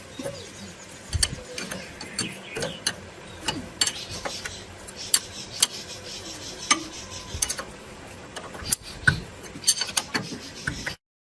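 Irregular metallic clicks and clanks of hand tools and engine parts being worked on, with ratchet-like ticking. The sound cuts off suddenly near the end.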